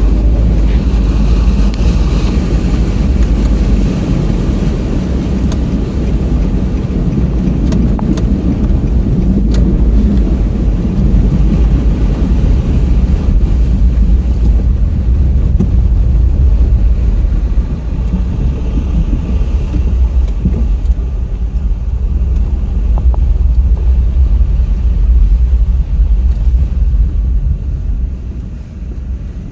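A car driving, heard as a loud, steady low rumble that dips near the end.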